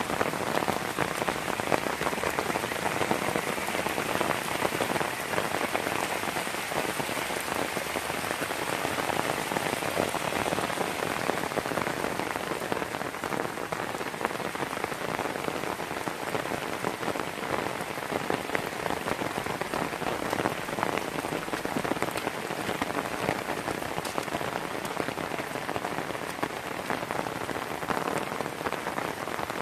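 Steady rain falling on a wet gravel and mud road: an even hiss dotted with countless small drop impacts.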